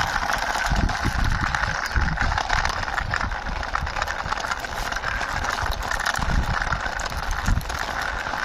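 Small toy car's wheels rolling and rattling as it is pushed by hand along a wall, with scattered clicks, over a steady background hiss and low buffeting on the microphone.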